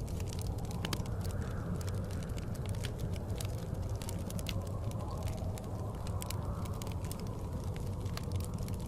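Wood fire crackling in a fireplace, with many irregular sharp pops, over the steady low rush of blizzard wind.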